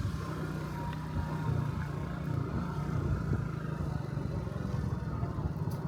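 Honda Dio Cesta 50cc scooter's small four-stroke single engine running steadily at low speed.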